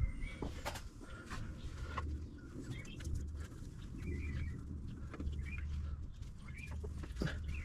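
Scattered light clicks and taps as spark plug leads are handled and pushed onto the distributor cap, with short bird chirps now and then in the background.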